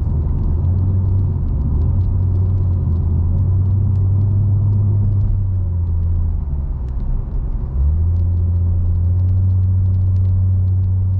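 Nissan Skyline V36 coupe being driven: a steady low rumble of its 3.7-litre V6 and road noise, which eases briefly and then steps back up about eight seconds in.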